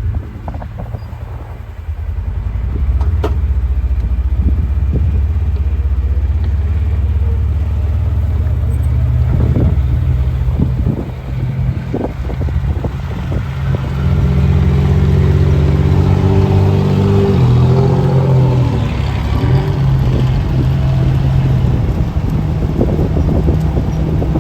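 Car engine running steadily as the vehicle drives, its pitch shifting up and down a little over halfway through, with scattered knocks and rattles.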